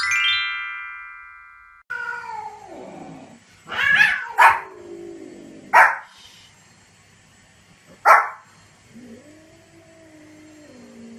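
A bright rising chime that rings down over about two seconds. Then a small spitz-type dog gives four short sharp barks, with long, wavering, pitched cries between them.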